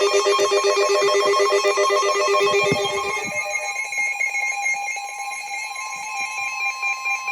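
Emergency alert tones ahead of a broadcast severe thunderstorm warning. A buzzy, rapidly pulsing alarm tone sounds for about three seconds and then gives way to a steady, higher alert tone.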